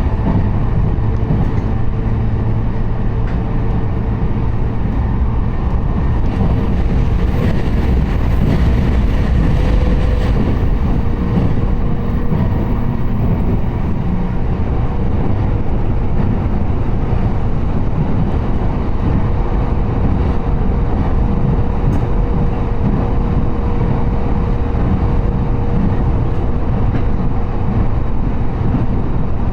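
Inside the cabin of a moving train: a steady low rumble of the wheels running on the rails, with a faint steady hum held underneath.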